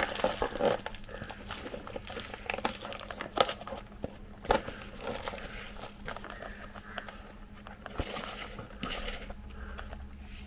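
Potting mix of soil, cow-dung powder and sand being scooped into a cut plastic bottle and pushed to its sides by hand: gritty rustling and crinkling of the thin plastic, with scattered small clicks and a couple of louder knocks about three and a half and four and a half seconds in.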